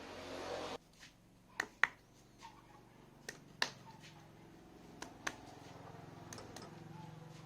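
A steady whirring machine noise cuts off abruptly just under a second in, followed by sharp clicks or taps, mostly in pairs, about three pairs over the next few seconds.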